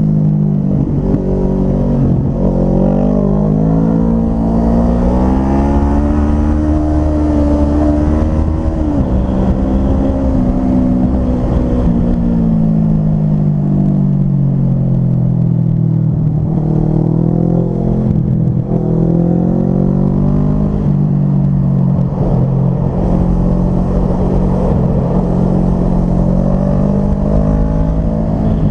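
Motorcycle engine heard from the bike itself while riding at modest speed, its pitch repeatedly rising and falling with throttle and gear changes, with a sharp drop about a third of the way in and a dip and climb again near the end.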